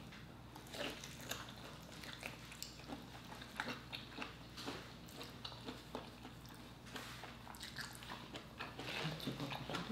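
Chewing of soft lobster tail meat, picked up close, with many short irregular mouth clicks and smacks.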